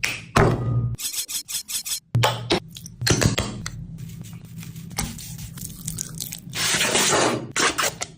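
Kitchen noises in short, abruptly cut segments: utensils and dishes scraping, rubbing and clinking, with bursts of hiss.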